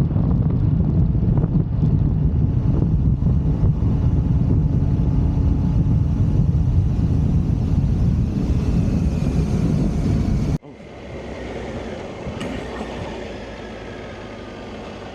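Wind buffeting and engine rumble from a motorcycle on the move. About ten seconds in it cuts off abruptly to a quieter engine sound whose pitch glides up and down.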